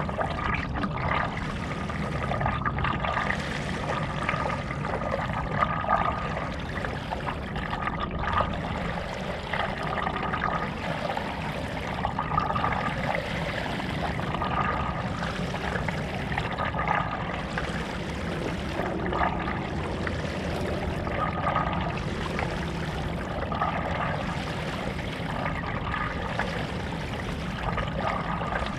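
Stand-up paddle strokes in lake water: the blade dips, pulls and drips in a steady rhythm of about one stroke every two seconds, over a steady low rumble.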